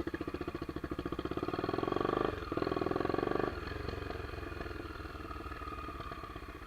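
Honda CBX 250 Twister's single-cylinder engine pulling away under throttle, rising for about two seconds, a brief dip for a gear change, then pulling hard again before easing off to a steadier cruise about three and a half seconds in.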